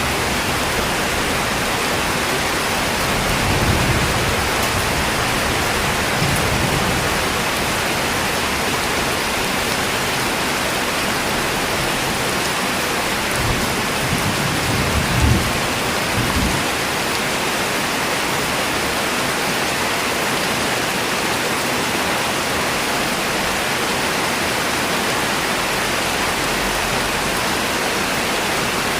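Steady, dense rainfall hiss, with a few brief low rumbles near the start and about halfway through.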